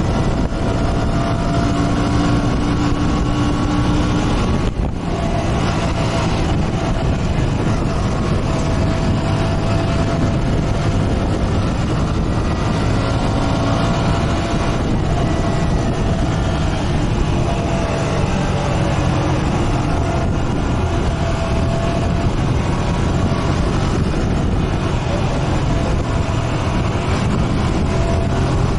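Motorcycle engine running steadily while riding, with heavy wind rush on the microphone. The engine pitch drifts slightly with speed, and there is a brief dip about five seconds in.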